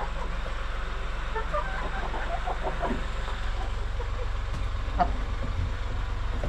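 Chickens clucking in scattered short calls, with a sharper call about five seconds in, over a steady low rumble.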